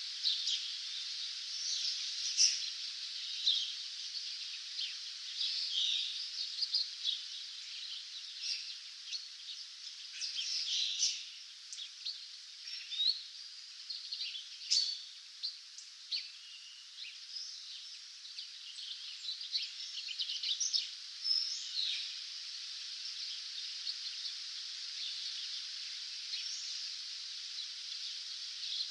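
A dawn chorus of several songbirds: many short chirps and trills over a steady background hiss, busiest in the first twenty seconds and thinning out toward the end.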